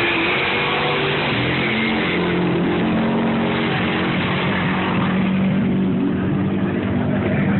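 Off-road racing trophy truck's engine running loud as the truck comes through at race pace; a steady engine note settles in about two seconds in.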